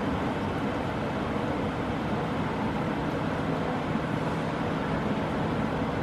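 A train running through with a steady low rumble that holds level throughout.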